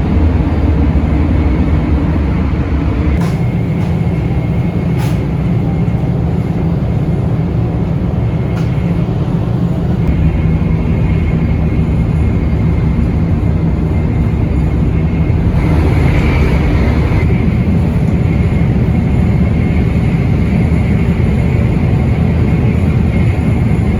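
Shinkansen bullet train running at speed: a steady rumble with a faint steady whine and a few light clicks.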